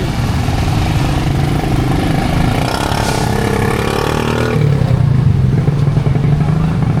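A vehicle engine running and revving close by over busy street traffic noise. A low engine hum grows louder about halfway through.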